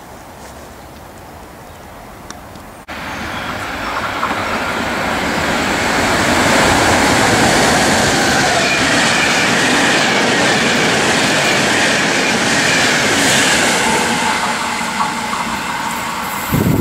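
Regional train hauled by an E464 electric locomotive passing through a station platform: a loud rush of wheels and running gear on the rails with clickety-clack, starting abruptly about three seconds in, staying loud through the middle and easing slightly near the end.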